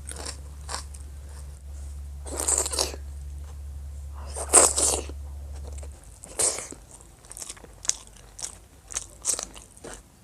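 Close-up eating sounds: bites and crunches into crisp fried food, the loudest about two and a half and four and a half seconds in, with smaller crunches and mouth clicks between. A low hum stops about six seconds in.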